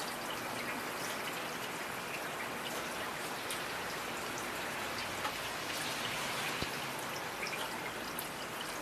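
Steady rain falling, an even hiss with many individual drops ticking and pattering on surfaces.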